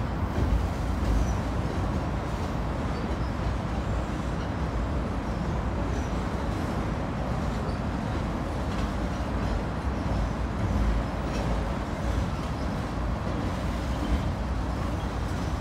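A long CSX freight train's tank cars and covered hoppers rolling steadily across a steel truss railroad bridge, a continuous even rumble.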